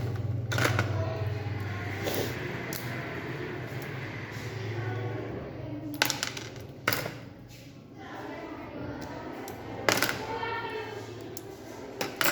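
Scattered sharp clicks and clacks of small hard parts of a pincer robot model being handled and set down, about half a dozen of them, over a low steady hum.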